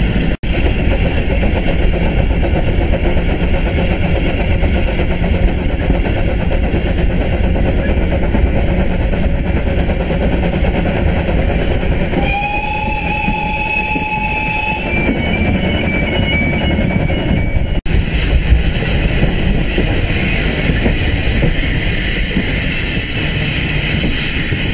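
Passenger coach running along the branch line, steady wheel and running noise heard from an open window. About twelve seconds in, the locomotive sounds a warning for a level crossing: one steady tone for about two and a half seconds, then a broken, higher tone for a couple more seconds.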